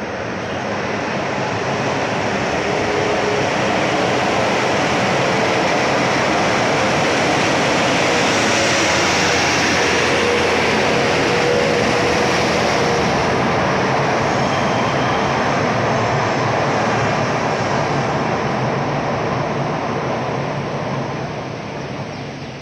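Train passing close by at the track, a loud steady noise of wheels on rail that swells up within the first second, holds through the middle and fades near the end.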